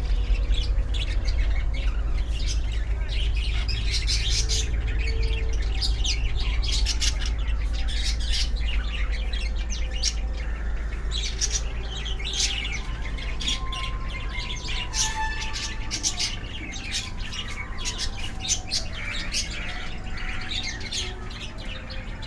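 A flock of small pet birds chirping and tweeting continuously, many short calls overlapping, over a steady low hum.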